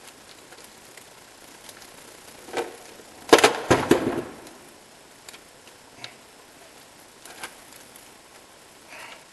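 Scattered knocks and clicks of tools or parts being handled, with a short burst of clattering about three and a half seconds in.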